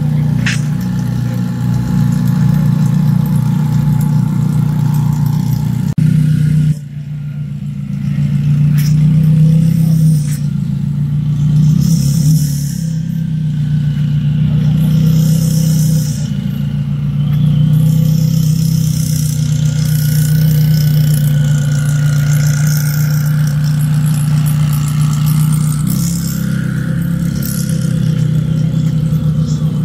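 McLaren supercar engine running steadily at low revs as the car creeps past, a constant low drone.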